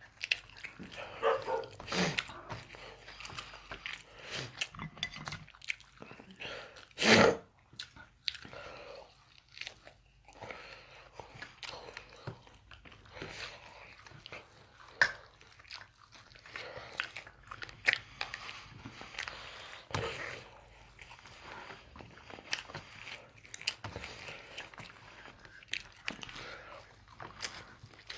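A person chewing and biting a meal of eggs and rice, with many short, irregular mouth smacks and clicks. There is one louder burst about seven seconds in.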